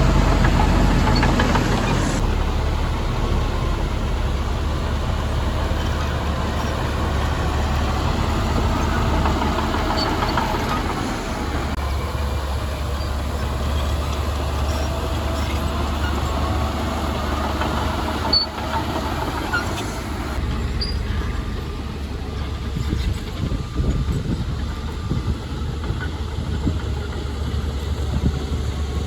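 Heavy diesel engine of earthmoving machinery running, with a steady low hum that eases slightly after the first couple of seconds.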